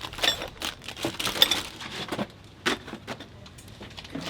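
Scattered clinks and knocks of tools and gear being handled and packed, about half a dozen sharp hits, the loudest about a second and a half in.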